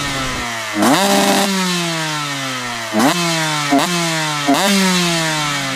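Enduro dirt bike engine revved in four sharp throttle blips, each climbing quickly and then sinking slowly back down.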